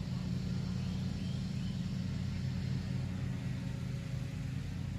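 Steady low rumbling hum with no clear start or stop, like a running engine or distant traffic.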